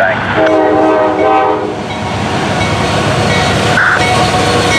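Norfolk Southern intermodal freight train running past with a loud rumble, its multi-chime air horn sounding one blast of over a second about half a second in.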